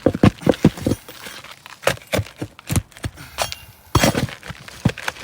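Brittle asphalt roof shingles cracking while a tool knocks, scrapes and clinks against them as nails are pried up, in a quick irregular string of sharp clicks and cracks. The shingles crack because they are worn and brittle.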